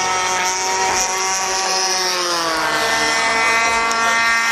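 Single-cylinder two-stroke DLE 20cc gas engine of an RC model warbird in flight, running at high throttle. Its pitch sinks slowly as the plane passes, then holds steady.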